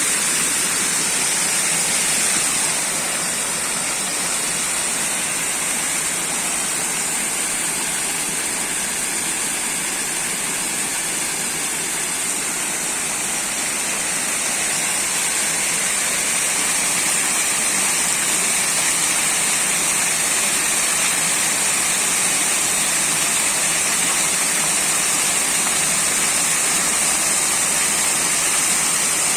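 Waterfall rushing steadily: an even, unbroken wash of falling water with a strong high hiss.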